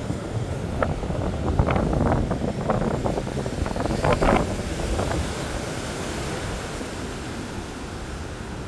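Wind buffeting the microphone over the sound of surf, with scattered short knocks and rustles during the first five seconds, after which it settles to a steadier, slightly quieter wash.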